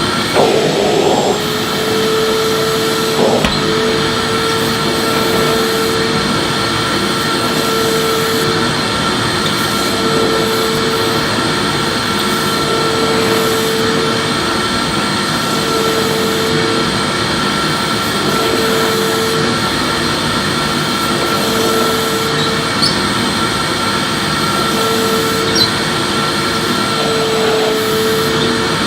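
Electric vacuum cleaner running steadily while sweeping. A hum in its drone comes and goes about every two and a half seconds, with a few light knocks.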